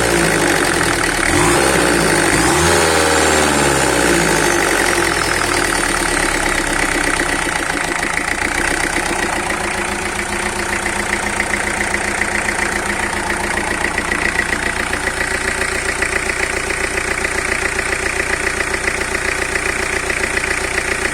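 Peugeot 2.5 turbo-diesel engine running out of the car. Over the first several seconds it is revved up and back down, with a high whine rising and falling with the revs. It then settles to a steady idle.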